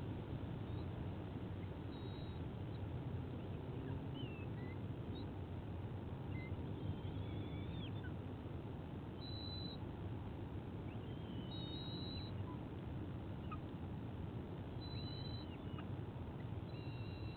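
Steady low outdoor rumble with thin whistled bird calls scattered through it every second or two. Some calls are short glides up or down, and a few are held notes.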